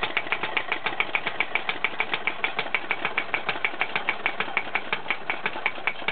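Model hammer stamper driven by a small kit-built steam engine, its hammer hammering in a rapid, even rhythm of about eight blows a second, delightfully noisy. The hammering cuts off suddenly at the very end.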